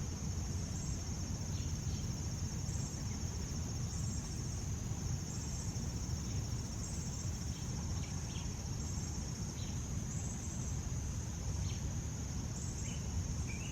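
Steady high-pitched chorus of crickets or similar late-summer insects, with a low rumble underneath.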